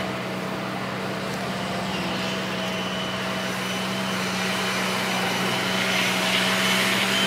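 Diesel engine of heavy earthmoving machinery running steadily, with a hiss that grows near the end.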